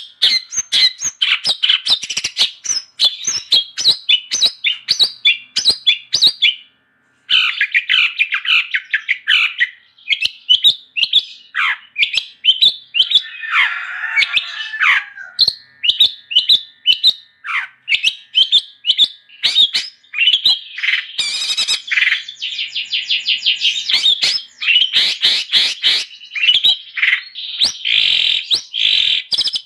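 Long-tailed shrike (cendet) singing steadily: fast runs of short, sharp chirping notes. There is a brief break about seven seconds in and a harsher, lower, scratchy phrase near the middle.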